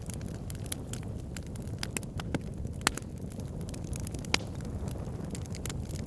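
Wood fire burning in a fireplace: a steady low rumble of flames with irregular crackles and sharp pops, two louder pops about three and four seconds in.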